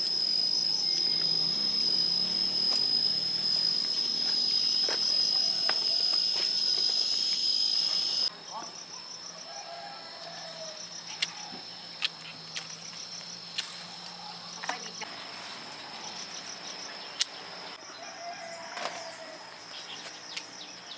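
Insects shrilling with a steady high-pitched buzz that cuts off abruptly about eight seconds in. After that the insect sound is fainter, with scattered sharp knocks and a few short chirps.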